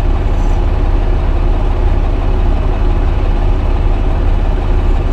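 Semi-truck's diesel engine idling, a steady low rumble heard from inside the cab.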